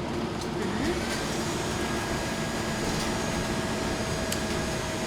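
City bus running, heard from inside the passenger cabin: a steady engine hum with cabin noise, and a few faint ticks.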